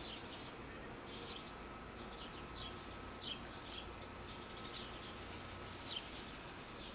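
Faint chirps of small birds, short high calls repeating irregularly every half second or so, over a faint steady tone.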